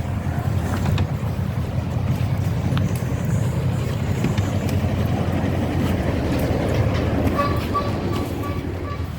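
Miniature railway train running on its track: a steady low engine hum with a few light clicks.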